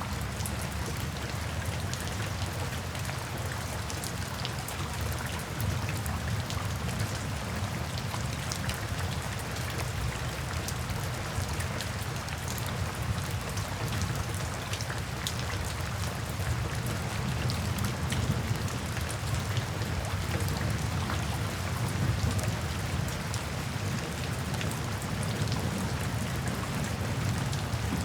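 Steady rain falling, with many individual drops ticking through the hiss and a low, continuous rumble underneath.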